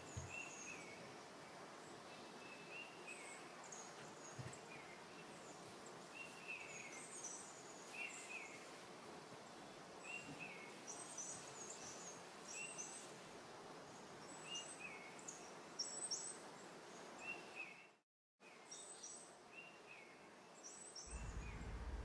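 Faint steady background noise with a small bird chirping repeatedly, a short chirp about once a second. A low hum comes in near the end.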